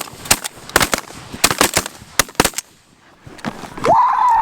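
A rapid volley of shotgun blasts from several goose hunters firing together, about a dozen sharp shots in the first two and a half seconds. After a short lull, a long drawn-out call rings out near the end.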